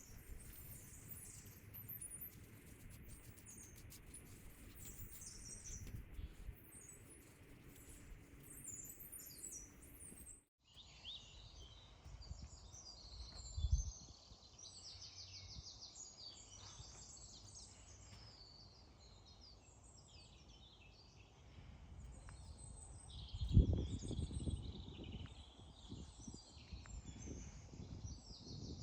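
Wild birds chirping and singing, faint, with a brief dropout about ten seconds in and a couple of low thumps, one near the middle and one near the end.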